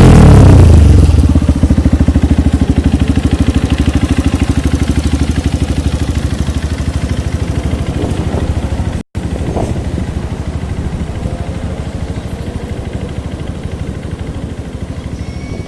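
Honda CRF150L single-cylinder engine idling through an aftermarket C-Squad Racing exhaust, a steady fast thumping, after a rev dies away in the first second. The sound cuts out for a split second about nine seconds in.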